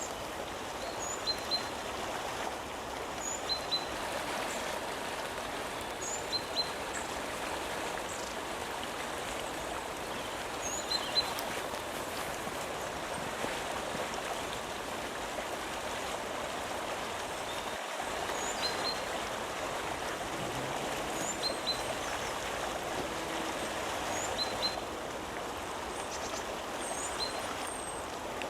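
Steady rush of running water, like a stream, with a bird giving short paired chirps every few seconds.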